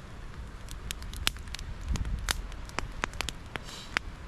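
Wood campfire crackling, with irregular sharp pops and snaps over a low rumble that swells about two seconds in.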